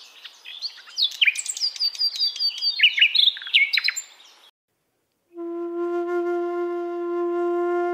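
Birds chirping and singing in quick whistles that slide up and down, cutting off about four and a half seconds in. After a short silence a flute comes in, holding one long steady note.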